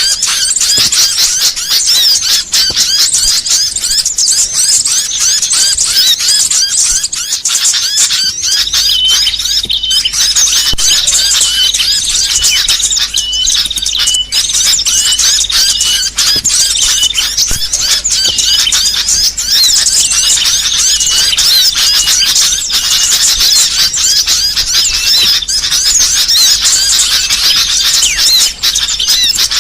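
Small songbirds twittering and chirping in a dense, continuous chorus of rapid high trills, with a run of short repeated notes about a third of the way in: a masteran tutoring and lure recording.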